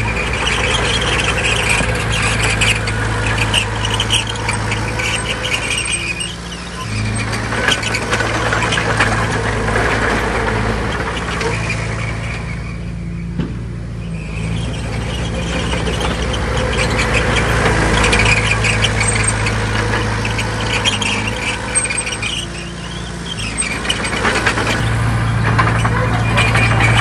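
Heavy diesel engine of earthmoving machinery running steadily under work, its note shifting several times, with a high-pitched noise that comes and goes over it.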